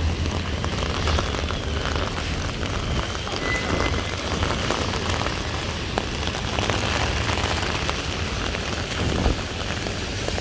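Heavy rain falling, a steady dense hiss full of fine drop ticks, over a low rumble.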